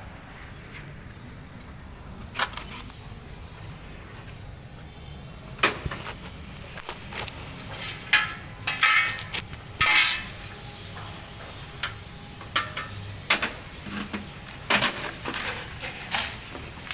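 Irregular clicks, clinks and knocks of hand tools and metal parts being handled during air-conditioner installation work. They come thicker in the second half, over a low steady background.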